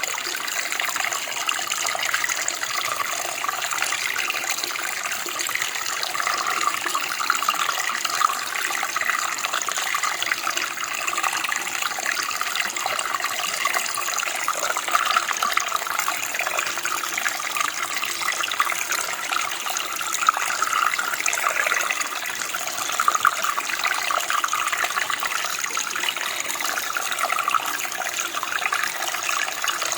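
Running water, a steady splashing flow like a small stream or creek, with no changes.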